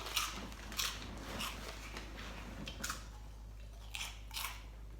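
A person chewing a crunchy, formed cheese-flavoured snack close to the microphone, with about half a dozen sharp crunches at irregular intervals.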